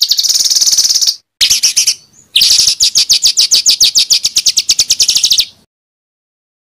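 A songbird's harsh, rapid-fire 'tembakan' song, a fast string of sharp repeated notes at about ten a second. It comes in three bursts: a short pause about a second in, another near two seconds, then a longer run of about three seconds that stops suddenly, followed by silence.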